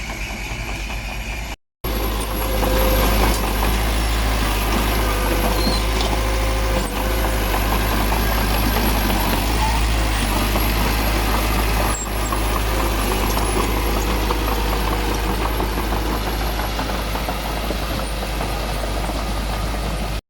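Heavy construction machine's diesel engine running steadily with a deep low hum. The sound drops out completely for a moment near two seconds, then returns louder.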